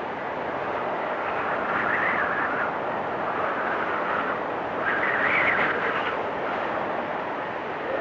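Blizzard wind blowing steadily, gusting up about two seconds in and again more strongly around five seconds in.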